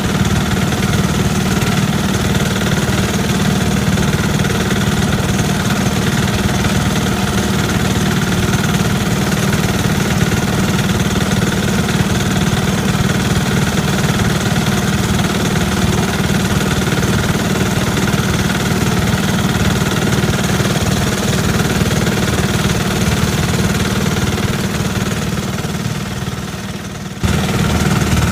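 A garden tractor's small engine running steadily. Near the end the sound fades a little, then comes back at full level all at once.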